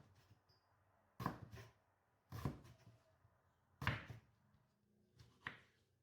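Four short knocks, spaced a second or so apart, with faint room tone between them.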